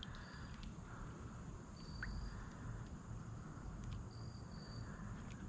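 Faint open-air ambience: short, high insect trills come and go over a low steady hiss and rumble, with one brief chirp about two seconds in.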